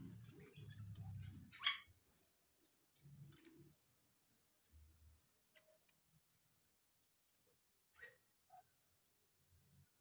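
Faint, short high chirps from small birds, scattered through. A low rumble runs in the first second and a half, and a single sharp click comes nearly two seconds in, the loudest sound.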